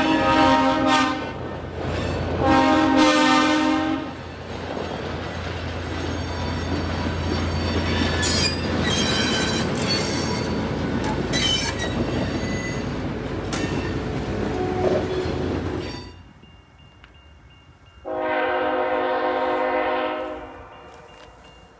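Diesel locomotive air horn sounding two chord-like blasts. The train then rolls by with a steady rumble and bursts of high wheel squeal, and cuts off suddenly. Near the end a single horn blast sounds again.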